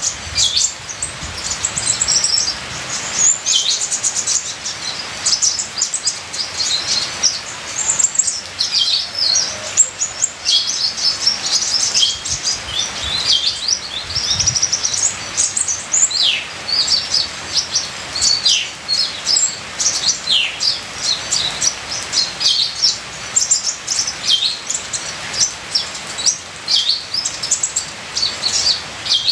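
A kolibri ninja sunbird singing a rapid, continuous stream of high, thin chirps and quick down-slurred notes, packed with varied phrases, over an even hiss of trickling rain water.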